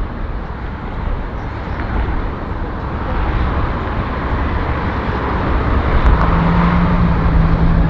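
Strong wind buffeting the microphone with road traffic passing close by; a passing vehicle's noise swells through the middle, and a steady low hum sets in about six seconds in.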